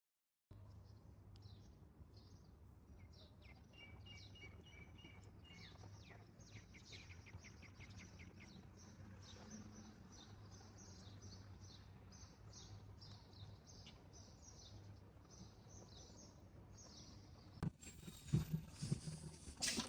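Small birds chirping: many short, high chirps, some in quick runs, over a steady low hum of background noise. Near the end comes a sharp knock, then a few louder thumps.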